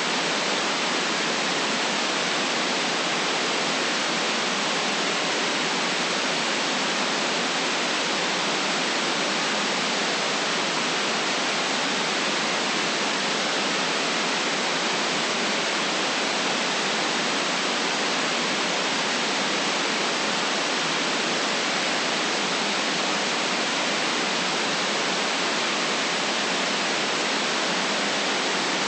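Steady, unchanging white noise: an even hiss with no rhythm or events, cut off below the low bass and above the upper treble.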